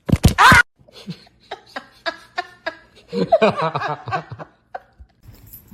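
A short loud cry with a rising pitch, then a person laughing: a run of quick breathy bursts followed by a longer, wavering laugh.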